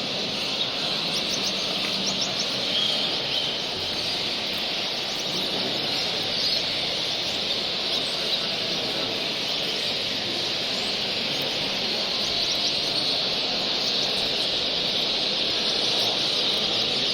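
Many small finches chirping together in a steady, dense chattering chorus, with scattered sharper chirps standing out.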